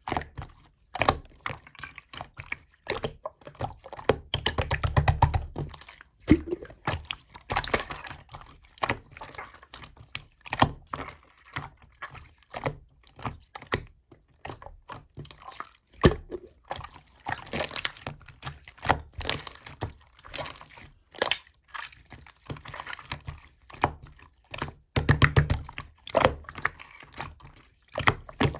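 Slime being squished, pressed and stretched by hand, making irregular wet clicks and air-bubble pops, with a fast run of crackling pops about four seconds in and again near the end.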